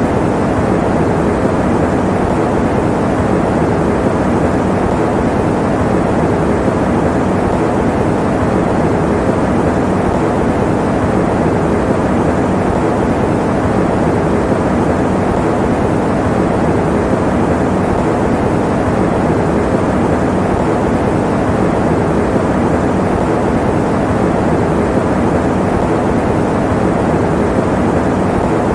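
Electric fan running steadily: an even, low rushing of moving air, with a faint low hum beneath it and no change throughout.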